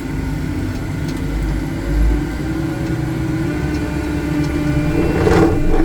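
Diesel engine of a Cat CS54B vibratory soil compactor running steadily, heard from inside the cab, with a brief louder swell about five seconds in.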